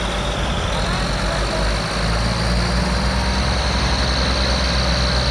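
Tractor diesel engine running steadily, with a thin high whine held above it.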